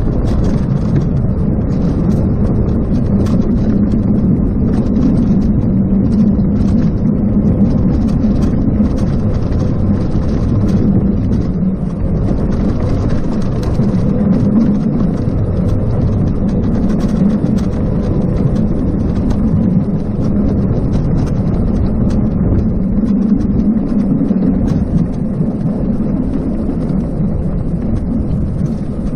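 Steady low rumble of riding an electric bicycle: wind buffeting the chest-mounted action camera's microphone over tyre and road noise, with scattered light ticks and a faint steady hum.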